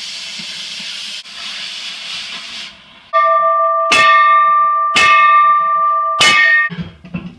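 A steady gas hiss from a cutting torch for the first few seconds, its oxygen jet just cleaned out. About three seconds in, loud music takes over, with sustained ringing notes and sharp hits about once a second.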